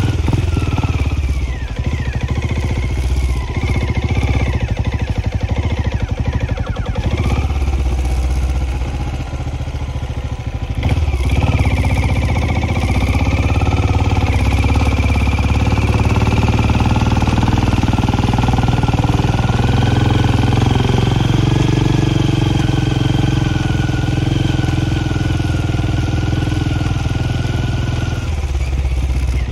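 Benelli Imperiale 400's single-cylinder engine running as the motorcycle climbs a steep hill road, heard from the rider's seat. The engine note eases off briefly about a third of the way in, then picks up again, rises in pitch a little past the middle and holds steady.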